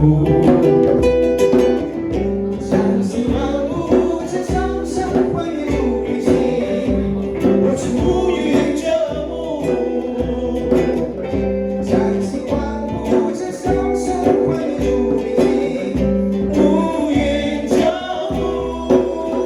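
Live jam of acoustic and electric guitars with a steady drum beat, and a voice singing over the playing.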